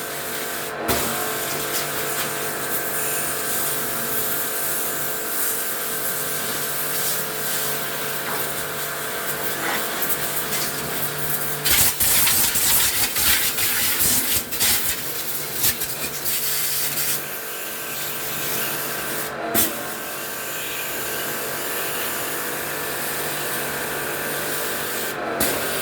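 A steady electric motor hum with a hiss of air or spray over it. Louder scraping and clattering cut in for a few seconds around the middle, with a few sharp knocks.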